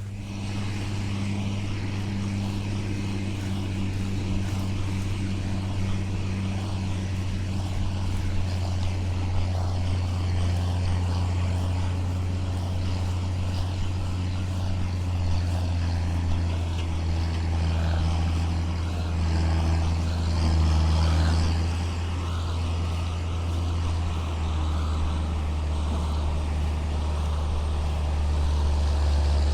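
Vehicle engine running steadily under load while towing a truck stuck in mud, with a low, even hum that swells a little about twenty seconds in.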